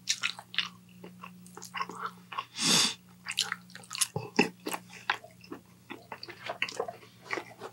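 Close-miked chewing of a mouthful of noodles: wet smacks and clicks of the mouth, with a short loud rushing noise about three seconds in, over a low steady hum.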